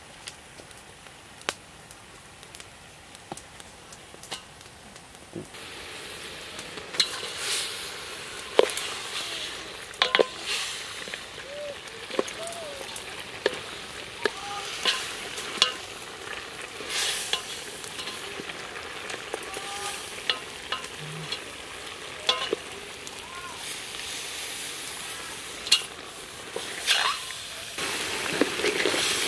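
Ducks frying and sizzling in sauce in a metal pot over a wood fire, while a ladle stirs them, knocking and scraping against the pot. The sizzle comes in about five seconds in and grows louder near the end.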